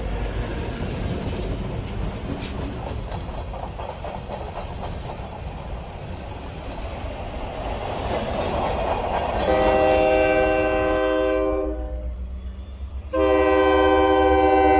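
A diesel freight locomotive approaching with a rumble that grows louder, then its multi-tone air horn sounds: a blast of about two seconds, a short break, then a second blast held on.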